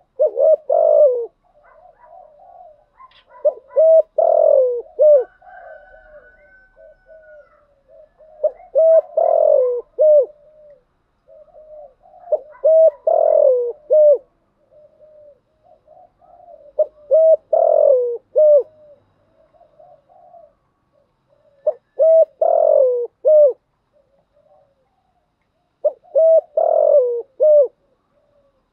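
Spotted dove cooing in repeated phrases about every four seconds, each phrase a quick run of low coo notes, with softer cooing between them. These are dove lure calls used to draw in and excite other doves.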